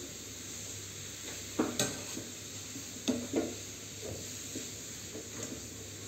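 Grated carrot sizzling in ghee in a steel kadhai, a steady hiss, while a spoon stirs it, scraping and knocking against the pan, most strongly about one and a half seconds in and again about three seconds in.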